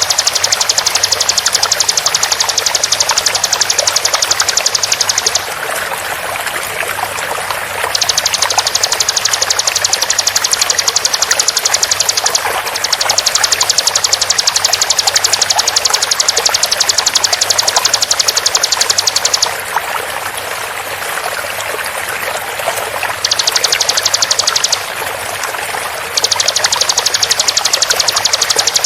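Bar-winged prinia (ciblek) giving its rapid 'tembakan' call: very fast, tightly repeated high notes in bouts of a few seconds, five bouts with short pauses between, over a steady sound of flowing water.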